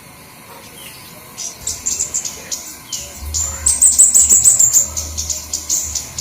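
Flowerpeckers calling in rapid, very high, thin chips and short trills, sparse for the first second and a half, then crowding into dense runs. A steady low hum sits underneath.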